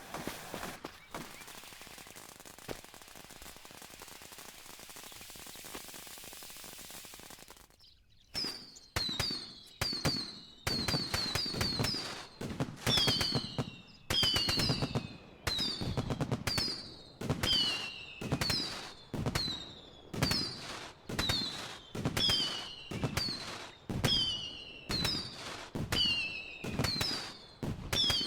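Fireworks: a steady hissing spray for about eight seconds, then a rapid run of bangs, a little over one a second, each with a short falling whistle.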